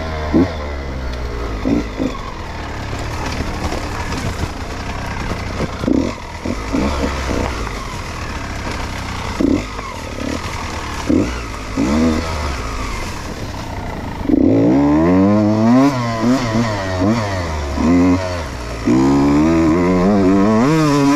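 Beta 125 RR Racing two-stroke enduro engine, ridden hard on a dirt track, heard from the rider's helmet: short blips of throttle rising and falling for the first part, then about two-thirds of the way in it gets louder with longer revs that climb and drop through the gears.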